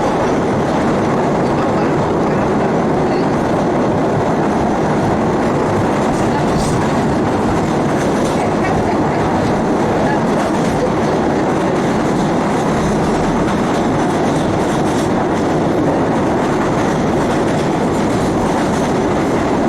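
Inside a Siemens 700 Series Blue Line subway car running through a tunnel: a loud, steady rumble of wheels on rail and car noise, with a few faint clicks.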